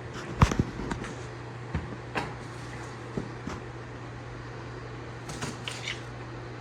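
Beverage cans being handled, with scattered sharp clicks and knocks, the loudest about half a second in, over a steady low hum.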